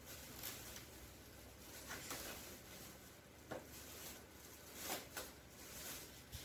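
Quiet room with a handful of faint, short rustles and light taps scattered through it.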